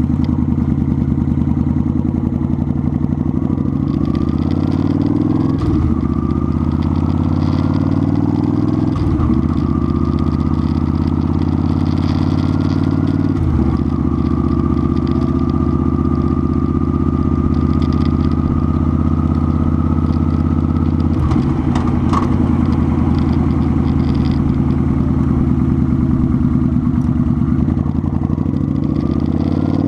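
Motorcycle engine running steadily under way, its note breaking briefly four times, with a thin whine that rises in pitch between the breaks.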